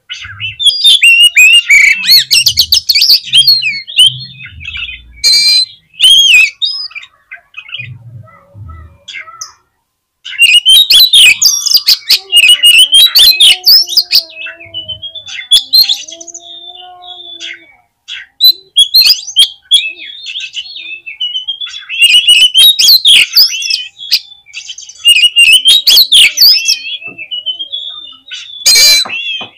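Oriental magpie-robin (kacer) singing loudly: rapid, varied whistles, chirps and trills in three long bouts separated by quieter pauses, with a short sharp burst near the end.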